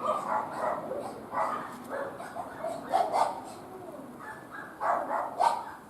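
A dog barking: a series of short, irregular barks.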